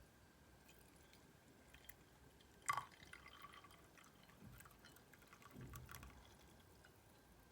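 Near silence with a few faint handling sounds: one sharp plink with a brief falling ring about three seconds in, some light clicks, and a soft thud near six seconds.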